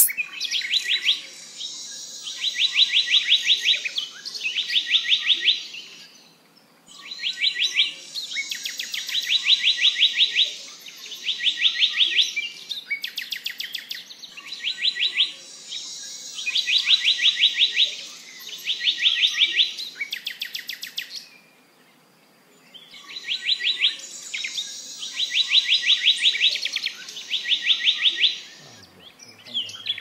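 A bird singing rapid runs of sharp, evenly spaced notes, two or three runs at a time, over a fainter high hiss. The phrase group comes back almost unchanged about every seven seconds, with short pauses between.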